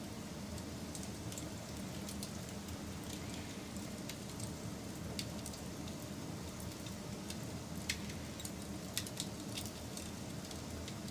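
Wood fire burning with a steady low rush and scattered sharp crackles and pops, a few louder ones about five, eight and nine seconds in.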